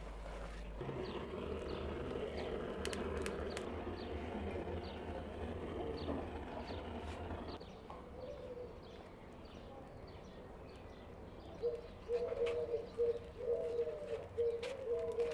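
A bird's low call, repeated over and over, begins about three-quarters of the way in. Before it there is only a steady hiss of outdoor background noise.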